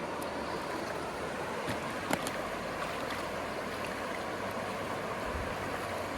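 Steady rushing of flowing stream water, with a faint click about two seconds in.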